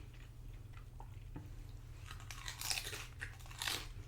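Close-up chewing and crunching of loaded nachos (tortilla chips), with a few crisp crunches in the second half.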